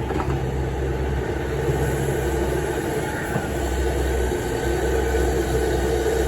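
Diesel engines of a working excavator and dump truck running steadily, a continuous low drone.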